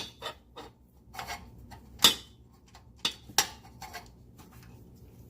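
Metal clinking and clanking as exhaust parts and tools are handled: several sharp knocks spread over a few seconds, the loudest about two seconds in.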